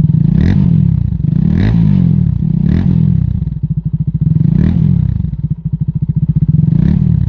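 Sport motorcycle's engine idling and revved in about five short throttle blips, showing off its exhaust note.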